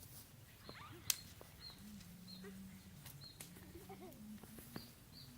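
Short high chirps repeated about every half second, typical of a small bird calling, with a sharp click about a second in.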